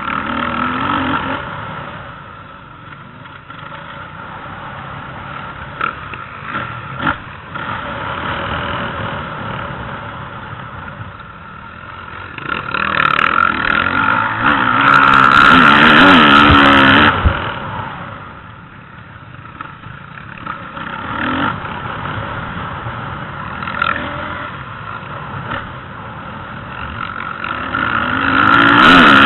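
Motocross dirt bike engines revving up and down, with the pitch wavering as the throttle is worked. The sound swells loudest around the middle and again near the end.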